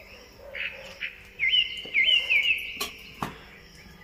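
A bird calling: a run of quick, repeated rising chirps, loudest in the middle. Two sharp clicks come near the end.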